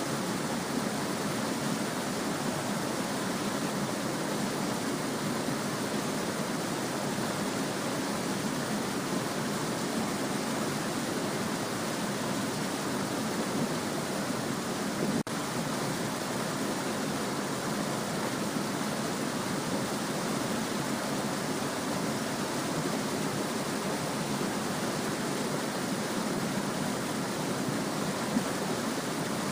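Small stream babbling steadily, an even rushing hiss with no distinct splashes, which drops out for an instant about halfway through.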